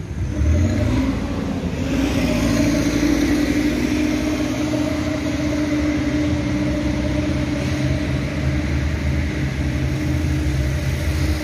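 A car engine running close by in street traffic, a steady hum.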